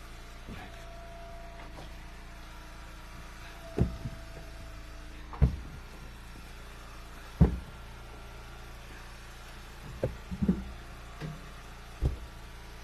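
Heavy wooden thuds, about six of them a second or two apart, as split ash firewood pieces and rounds are dropped and tossed, over a steady low hum.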